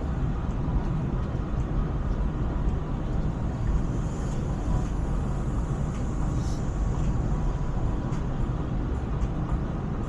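Steady low rumble of a KTM ETS electric train running, with faint ticks and a thin steady tone over it.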